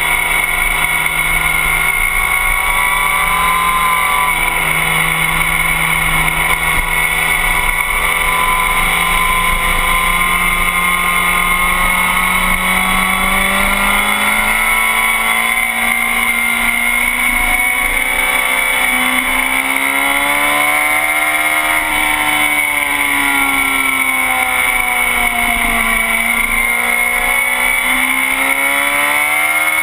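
Sport motorcycle engine under way on a race track, heard from the bike's tail. The engine note holds steady, then from about halfway rises and falls again and again as the rider opens and rolls off the throttle through the corners. Wind rush on the microphone and a steady high whine run under it.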